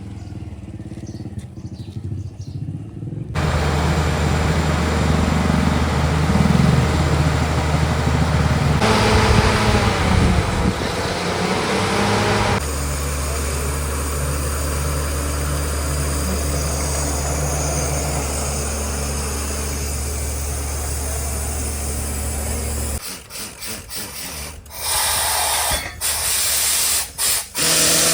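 Engine of a mini borewell drilling rig running steadily under load, its sound changing abruptly a few times. Near the end come broken, stop-start bursts of loud hissing noise.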